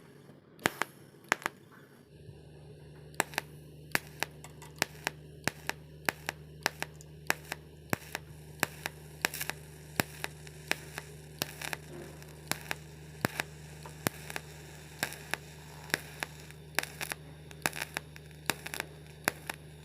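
TIG welding arc buzzing steadily, coming on about two seconds in, with sharp crackling clicks scattered irregularly about twice a second.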